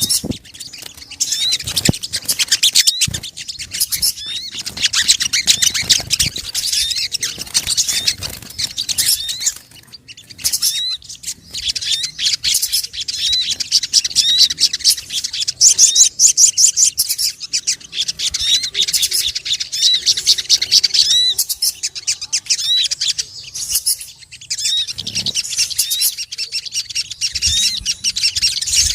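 Bird-lure recording of sogon calls: short high chirps repeated about once a second over dense, busy twittering, with brief lulls twice.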